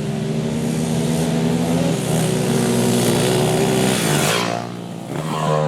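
Motorcycle engine running under throttle, growing louder over the first four seconds, then cutting back sharply, with a short burst of throttle near the end.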